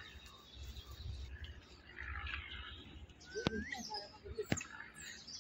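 Faint outdoor ambience: a few bird chirps, with a rising call about three and a half seconds in, and a couple of sharp clicks, over the low rustle of footsteps on dry leaf litter.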